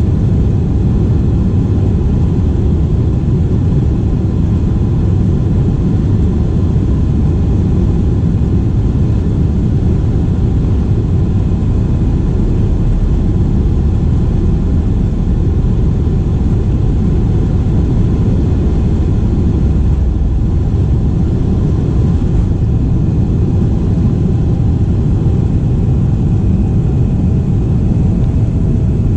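Steady, unbroken low roar of an airliner's jet engines and airflow, heard from inside the passenger cabin, with faint steady tones above the rumble.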